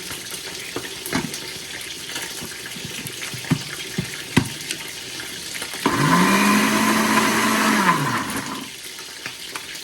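Electric blender run once for about three seconds, its motor spinning up, holding and winding down, blending the fried onions with coriander, garlic and ginger. Before it, a few sharp clicks and knocks over a steady hiss.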